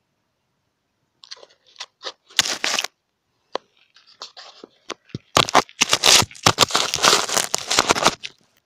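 Campfire crackling, with a few scattered sharp cracks at first, then dense, continuous crackling from about five seconds in.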